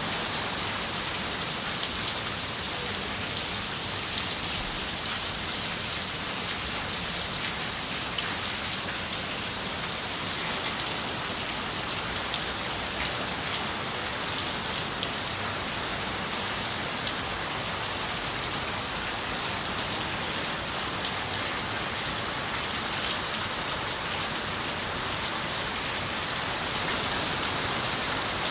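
Steady rain falling on a window, an even hiss with many small drop ticks.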